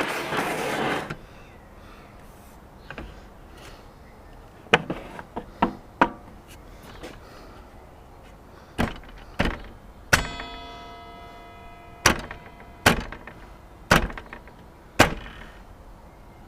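Rip fence being fitted to an Evolution table saw: a brief scraping slide, then a string of separate sharp knocks and clunks. One knock about ten seconds in rings on for a second or so.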